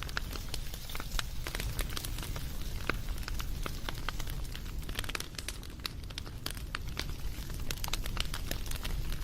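Campfire crackling: irregular sharp pops and snaps over a low, steady rumble of burning wood.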